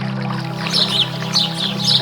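A creek running under a steady, low music drone. From under a second in, a bird calls in short, high chirps about twice a second.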